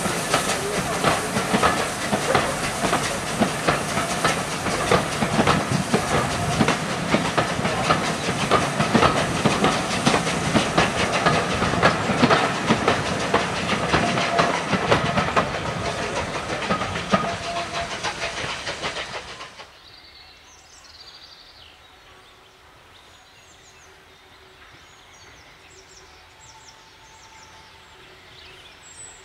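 Steam-hauled train of passenger coaches rolling past, wheels clattering rapidly over the rail joints with a steady hiss. About 19 seconds in the sound cuts off abruptly to a quiet outdoor background.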